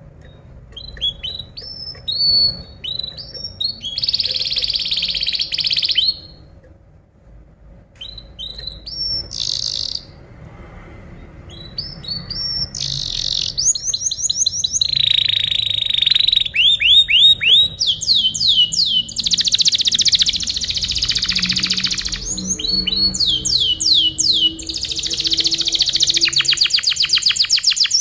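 Domestic canary singing: fast rolls of repeated chirps and quick downward-sweeping notes, some rolls buzzy. The song is broken with a short pause at first, then turns louder and almost continuous about halfway through.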